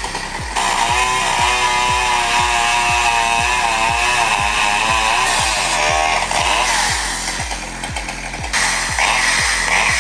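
Chainsaw running, its revs rising and falling, over background music with a steady thumping beat.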